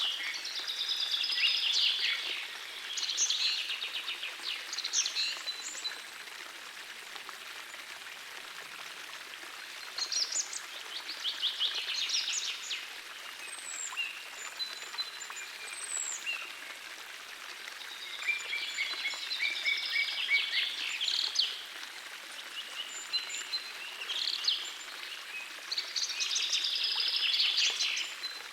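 Gentle forest stream flowing steadily, with songbirds singing over it in bursts of fast, high trills and chirps every few seconds, then pausing.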